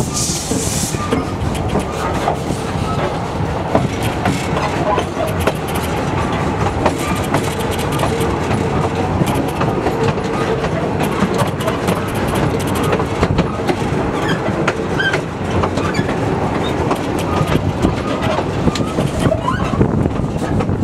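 Narrow-gauge railway carriage running along the track, heard from on board: a steady rumble with wheels clicking over the rail joints.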